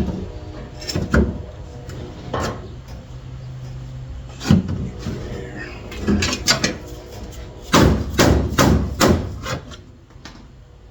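Irregular hammer blows on a car's sheet-metal floor pan while an old patch repair is knocked loose from its spot welds. The knocks come singly at first, then several in quick succession near the end.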